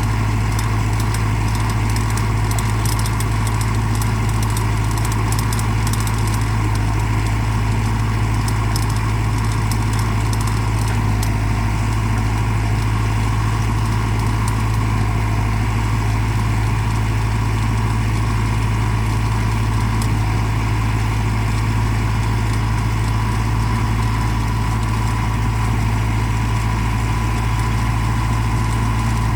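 Mahindra tractor's diesel engine running at a steady speed, a constant low hum that does not change pitch.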